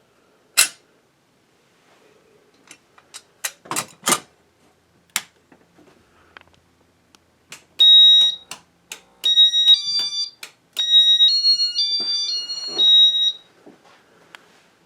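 Several sharp clicks, then a run of short electronic beeps at a few different high pitches, some held for about half a second.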